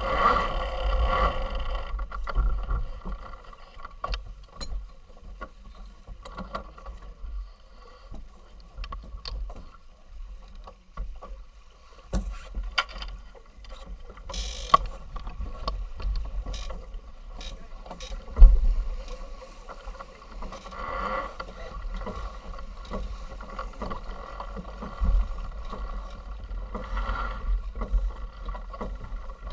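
A sailing yacht under way on the water, with a steady low rumble and wash of noise and scattered knocks; a sharp thump about 18 seconds in is the loudest sound.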